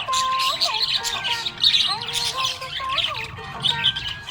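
Budgerigar chattering with rapid, continuous chirps and squawks, over a simple tonal melody.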